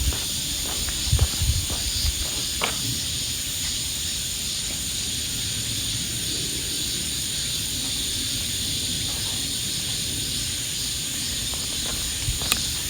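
Steady high-pitched insect chorus, with a few soft footsteps on a path in the first couple of seconds and again near the end.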